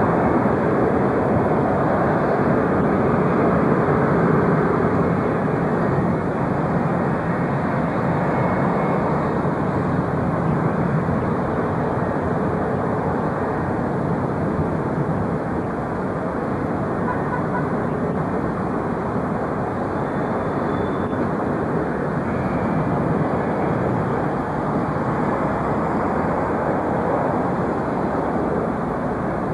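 Jet airliner engine noise: a steady, even rushing sound, a little louder in the first few seconds.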